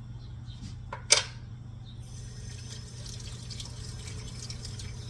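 Kitchen handling sounds while a meat grinder is being dismantled: a sharp clank about a second in, then a steady hiss with light clicking over a low background hum.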